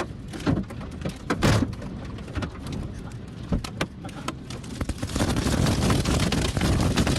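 Severe storm: scattered knocks and clattering over a low rumble, then about five seconds in a dense, louder rush of rain and wind.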